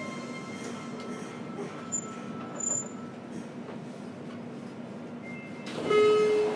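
Running noise inside a JR Kyushu 303 series electric train's motor car: a steady rumble of wheels on rail under an even whine from the traction equipment, with a few faint high squeaks. Near the end a loud, steady tone with overtones sets in suddenly.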